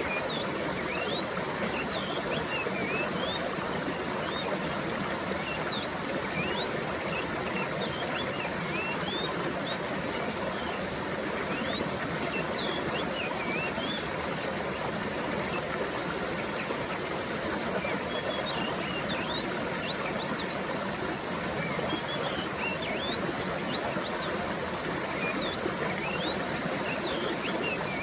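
Stream water running and babbling steadily, with many birds chirping in short high notes throughout.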